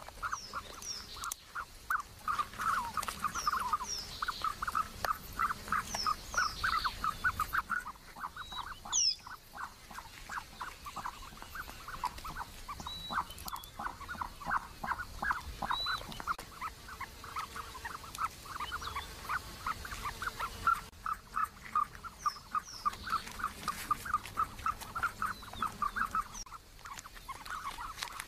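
A bird giving rapid, repeated clucking calls, about four or five a second, with higher chirps from small birds scattered over them.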